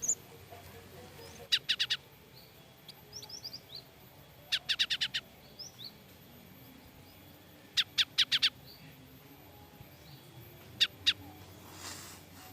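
Cinereous tit (gelatik batu) giving alarm calls: repeated short runs of harsh, rapid chattering notes, four to six strokes each, with thin high chirps between the runs. These are the calls of a frightened bird.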